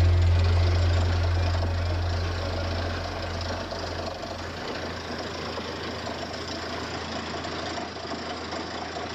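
An engine running steadily; its low hum fades over the first few seconds, leaving an even mechanical running noise.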